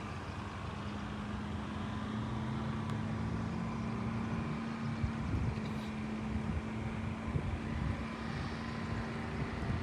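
Steady low mechanical hum holding one pitch, over a rumble, with some irregular low thumps in the second half.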